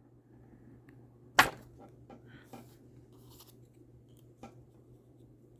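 A stamp set on an acrylic block is pressed onto cardstock: one sharp tap about a second and a half in, then a few faint clicks and soft paper rustles as it is handled.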